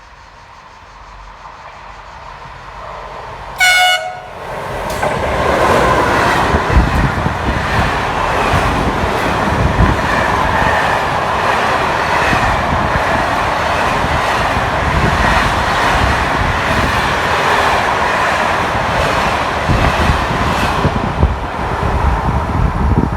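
A train gives one short horn blast, then runs through the station: a loud, steady rush of wheels on rail that builds up over a couple of seconds, with repeated clacks as the wheels cross the rail joints.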